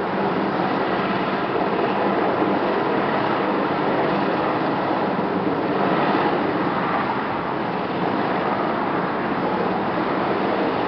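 BK 117 helicopter's twin turbine engines and rotor running steadily, an even loud mechanical roar with a low steady hum and no change in pitch.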